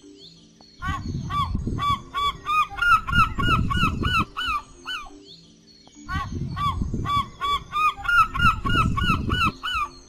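Gulls calling in a long run of quick, repeated cries that come faster as each run goes on, in two runs of about four seconds each, over quiet background music.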